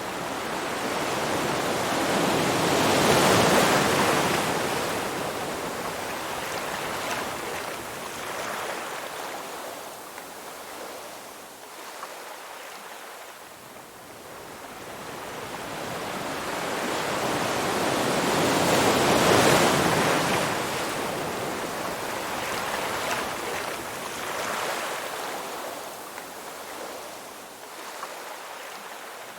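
Ocean surf: two large waves build up, break, and wash out into a long hiss, about sixteen seconds apart, with quieter wash between them.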